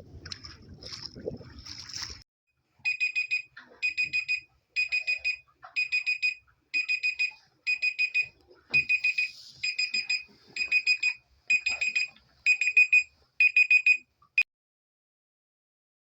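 Electronic alarm beeping in quick bursts of high beeps, about one burst a second, for roughly eleven seconds before it is cut off suddenly. Faint rustling before the beeping starts.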